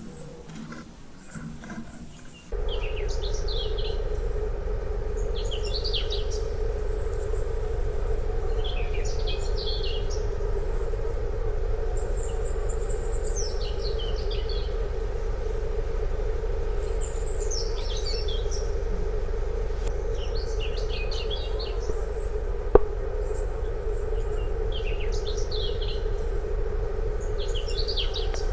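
Birds chirping in short clusters every two to three seconds over a steady low background rumble that comes in abruptly about two and a half seconds in. One sharp click near the end.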